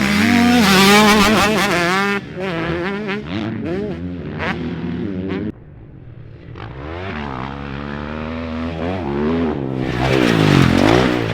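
Motocross dirt bike engine revving hard, its pitch climbing and falling repeatedly as the throttle is worked and it shifts gears. The sound drops off suddenly about halfway through, then builds back up to full throttle near the end.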